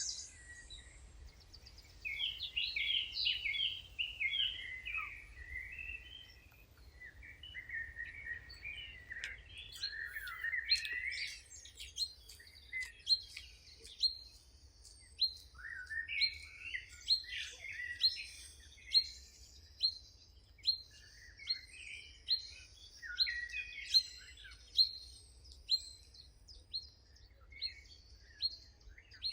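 Several wild birds singing and chattering in warbling phrases. From about twelve seconds in, one bird repeats a short, sharp high note steadily, a little under twice a second, while the others keep chattering underneath.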